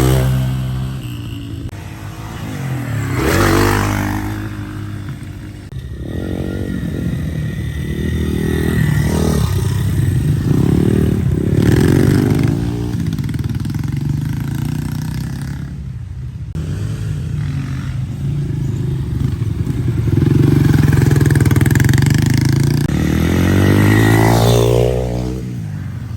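Dirt bike engines revving hard and passing by one after another, the pitch climbing and falling with each pass. The loudest passes come about halfway through and again near the end.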